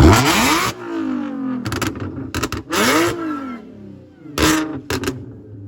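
Car engine being revved in blips, with its pitch climbing and dropping right at the start and again about three seconds in. Short sharp noisy bursts come in between, and it falls back to a low steady idle near the end.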